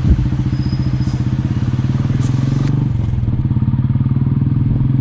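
Royal Enfield Bullet Electra 350's single-cylinder four-stroke engine running steadily with an even pulsing beat, and a brief thud just after the start.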